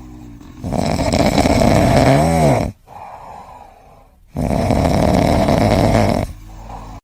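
Loud snoring: two long, noisy breaths a couple of seconds apart, the first ending in a short squeak that rises and falls in pitch.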